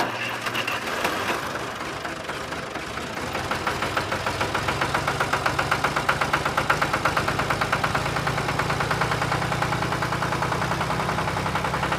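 Tractor-style engine chugging at idle, a rapid, even knocking beat over a low hum; it grows a little louder and more pronounced about three to four seconds in.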